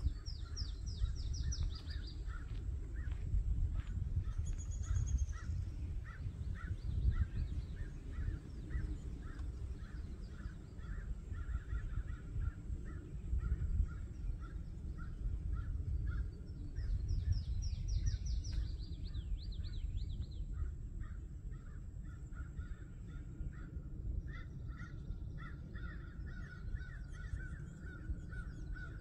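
Birds calling: a long run of short repeated calls, about two a second, with a fast falling trill high up near the start and again about two-thirds through. Under them runs a steady low rumble, the loudest part of the sound.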